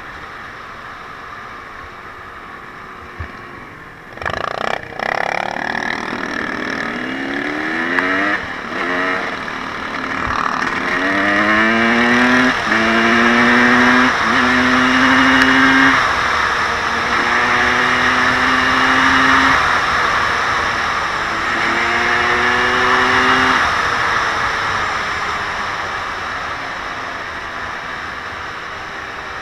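Off-road vehicle engine accelerating hard through the gears, its pitch climbing in a series of rising steps, then held at high revs in stretches with short drops. It gradually fades near the end. A couple of sharp knocks come about four to five seconds in.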